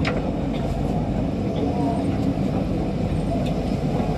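Steady low rumble heard from inside an MRT Kajang Line metro train, with a short click right at the start.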